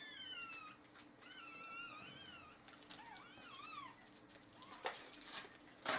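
Newborn Shiba Inu puppy crying: three high, wavering squeaky cries, followed by a few faint clicks of handling near the end.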